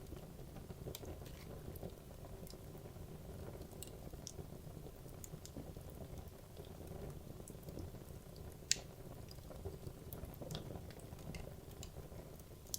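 Wood fire burning in a fireplace: a steady low rumble of flame with scattered crackles and snaps from the logs, one sharp pop standing out a little after eight seconds in.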